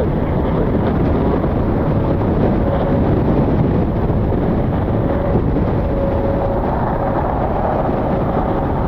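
Strong wind rumbling and buffeting against the microphone, with a faint steady hum underneath.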